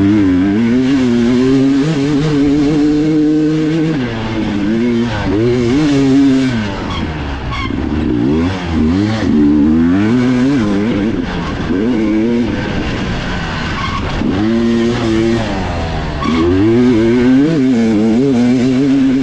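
Dirt bike engine at race pace, heard from on board. Its pitch climbs and falls again and again as the throttle opens and closes and the gears change, with short drops where the rider backs off.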